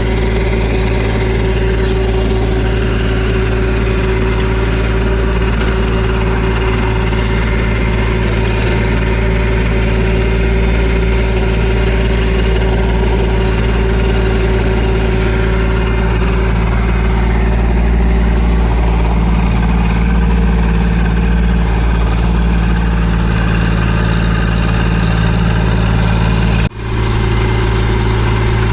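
Kubota B2441 compact tractor's three-cylinder diesel engine running steadily, its note rising slightly around the middle, with a brief break near the end.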